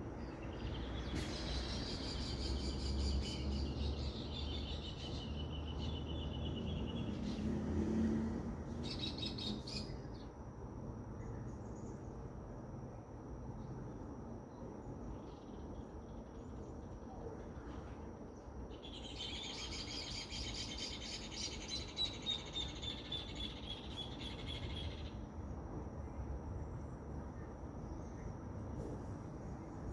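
Birds singing outdoors: a song of rapid repeated notes early on, short calls, then a longer song of quick notes stepping down in pitch about two-thirds through. A faint steady high tone runs underneath, with a low rumble in the first third.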